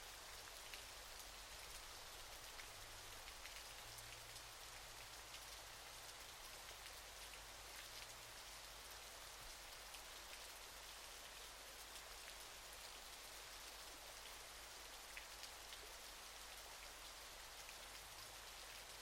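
Waterfall: a faint, steady hiss of falling water with many small droplet splashes.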